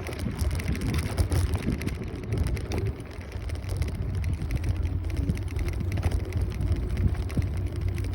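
Wind buffeting the microphone and road rumble during an electric scooter ride: a steady, heavy low rumble with crackling noise over it.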